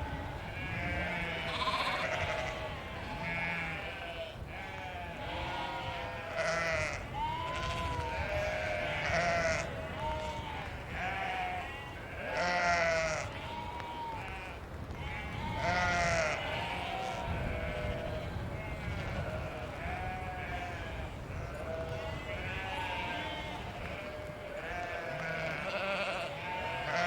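A flock of sheep bleating, many calls overlapping without a break, with a few louder nearby bleats standing out over the rest.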